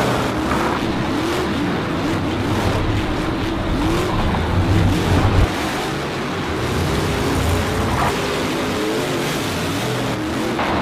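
Race-car engine sound, revving up and down in quick repeated rises and falls, laid over toy car racing.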